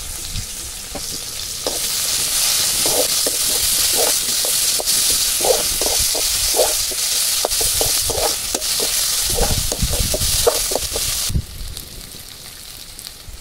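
Onions, chillies and spice pastes sizzling in hot oil in a metal kadhai, with a perforated steel spatula scraping and stirring against the pan in many short strokes. The sizzle grows louder about two seconds in and drops away sharply near the end.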